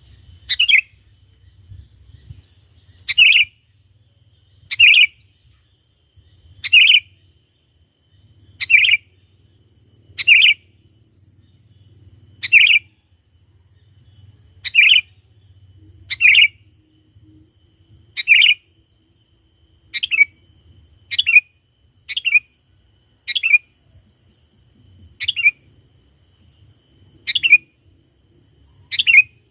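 Sooty-headed bulbul (kutilang) giving short, loud calls over and over, one every one to two seconds, each a quick note that drops in pitch. This is a lure song used to draw wild bulbuls in.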